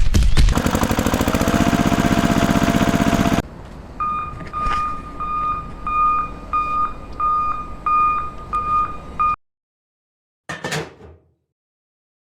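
A small motor buzzes with rapid clicking for about three seconds. Then an electronic beep repeats about twice a second for some five seconds, like a vehicle reversing alarm, and cuts off suddenly. Two short sounds follow near the end.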